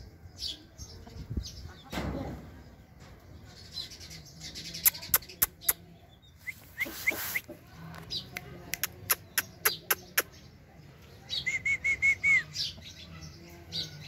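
Birds chirping: clusters of sharp, very short chirps, then a quick run of five high chirps a little before the end. There is also a brief rush of noise about halfway through.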